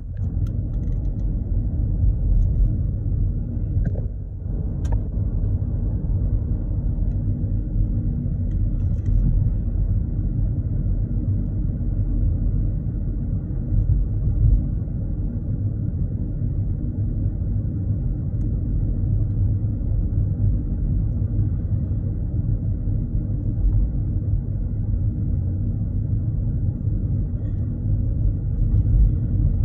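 A car being driven: a steady, low rumble of engine and road noise with no change in speed or pitch.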